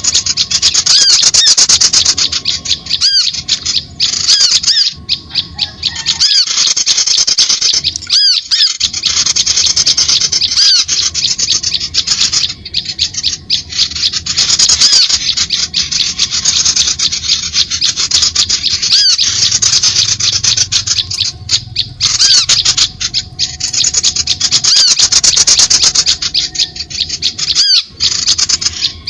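Dense, rapid chattering and squawking of many small birds, a mixed bird-lure (pikat) recording used to draw in wild birds. Short breaks in the chatter come every few seconds.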